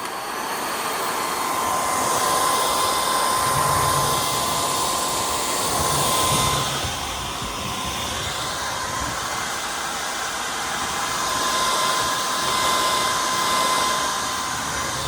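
Cordless stick vacuum running steadily, a rush of suction air with a high motor whine that fades around the middle and returns, as it picks up dog hair from a hardwood floor.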